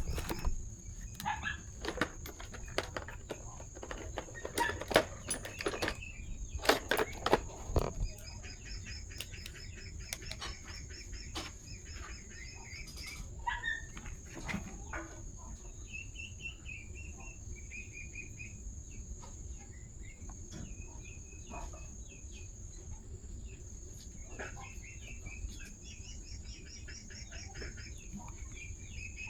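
Scattered knocks and clicks for the first several seconds, then birds chirping in short repeated calls over a steady high-pitched whine.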